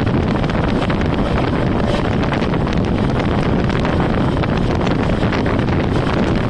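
Express train passing at speed close by: a steady, loud rush of air and rolling noise with dense, irregular wheel clatter over the rails, and the wind of its passing buffeting the microphone.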